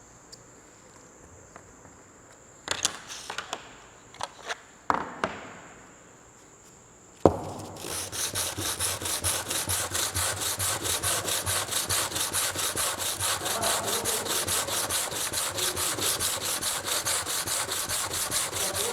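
A soap mould piece rubbed back and forth on coarse sandpaper, a few handling knocks and a click first, then quick, even sanding strokes from about eight seconds in: the oversized base piece is being ground down until it fits.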